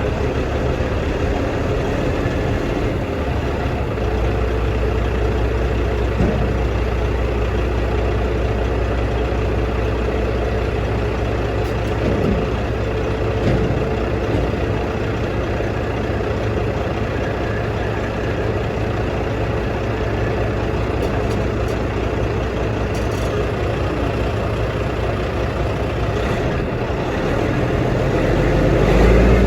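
Caterpillar dump truck's diesel engine running steadily, then rising in pitch and loudness near the end as it revs up.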